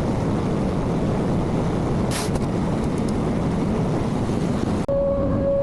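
Small diesel engine of a compact construction machine running steadily, with a brief hiss about two seconds in. Near the end the sound changes abruptly to a steady high-pitched hum.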